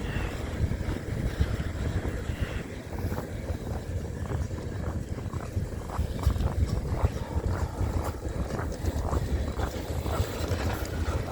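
Blizzard wind buffeting the microphone in a steady low rumble, with many small ticks scattered through it.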